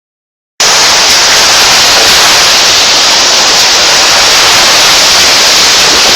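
Heavy monsoon rain pouring down in a loud, steady hiss that cuts in suddenly about half a second in.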